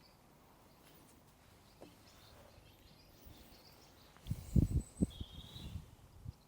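Faint birdsong of short high chirps, then a cluster of dull low bumps and knocks about four seconds in.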